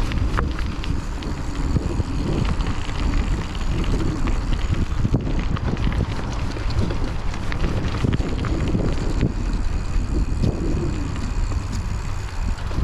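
Wind buffeting a chest-mounted action camera's microphone while riding a Raleigh Trailblazer T6 hardtail mountain bike on an off-road trail. Tyres roll over the dirt, and the bike gives a scatter of small rattles and clicks.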